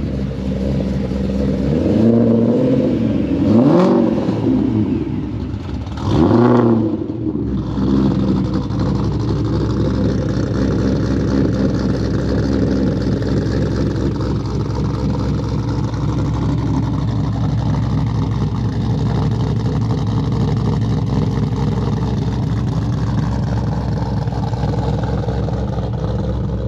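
A 2013 Shelby GT500 Super Snake's supercharged V8 is revved hard three times in quick succession, then settles into a steady, insanely loud idle.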